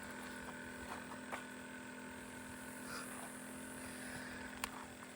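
Faint steady low hum with a few light clicks and taps.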